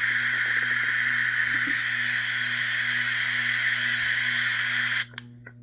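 Portable baby noise machine playing a steady white-noise hiss through its small speaker at full volume, cutting off suddenly about five seconds in as it is switched to the next sound.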